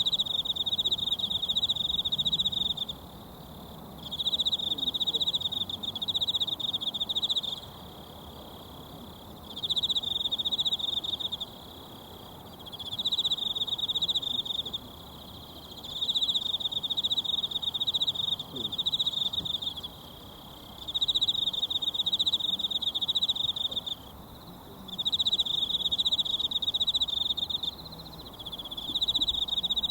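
An insect trilling at a high, even pitch in repeated phrases of two to four seconds with short pauses, about eight times, over the steady rush of a mountain stream.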